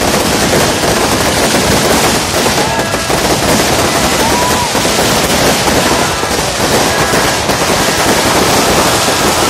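Many fireworks and firecrackers going off at once in a loud, unbroken crackle of rapid bangs, with a few short whistling tones rising and falling through it.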